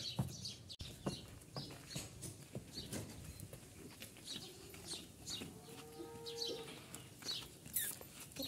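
Small birds chirping in quick, short high notes, with one held call of about a second a little past halfway, among scattered light knocks and rustles.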